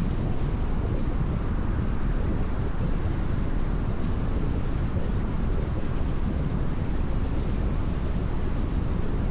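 Steady road noise of a car cruising on a rain-wet expressway: tyre hiss on the wet surface mixed with wind noise, heaviest in the low rumble.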